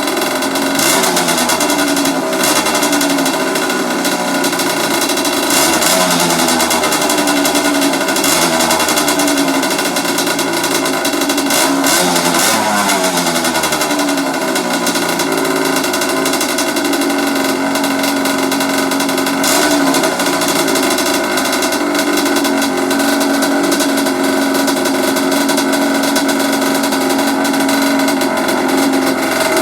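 1984 Kawasaki KX125's single-cylinder two-stroke engine running, revved up and down repeatedly for the first half or so, then held at a steadier speed.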